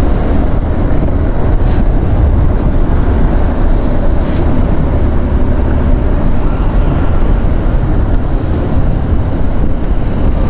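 Loud, steady wind and road roar from a Yamaha R15 V4 sport bike being ridden at speed, with wind buffeting the microphone. Two brief hisses cut through about two and four seconds in.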